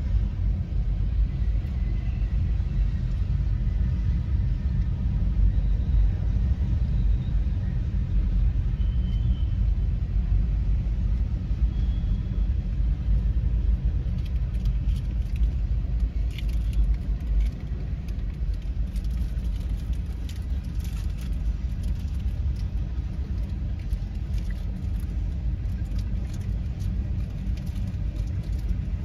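Freight train cars rolling past a grade crossing, heard from inside a car as a steady low rumble. Faint short squeals come in the first half and scattered light clicks in the second half.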